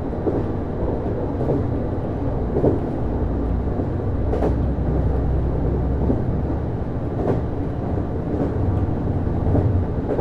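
JR East Series HB-E210 hybrid train running, heard inside the passenger car: a steady low rumble of wheels on rail with a few irregular clicks and knocks from the track, the sharpest about halfway through.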